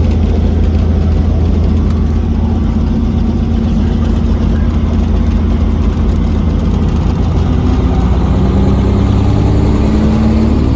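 Helicopter running loudly with a steady low engine and rotor hum; over the last few seconds its pitch rises.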